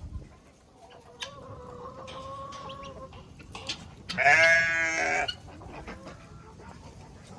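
Farm animals calling: a long, steady call, then a louder, wavering call about four seconds in.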